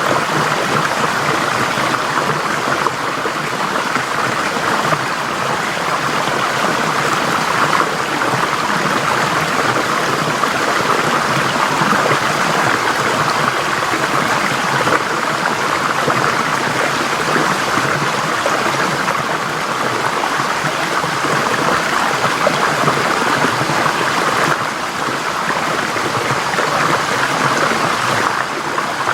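Forest stream flowing steadily over rocks, a continuous rush of water with small shifts in level.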